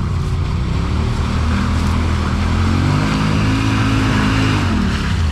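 Off-road vehicle engine running, revving up about a second and a half in, holding higher, then dropping back near the end.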